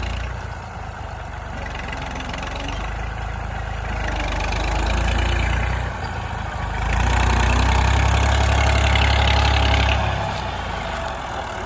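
Old tractor engine running under load as it strains to pull a loaded sugarcane trolley. The engine note swells about four seconds in, drops back, then rises again louder and longer before easing off near the end.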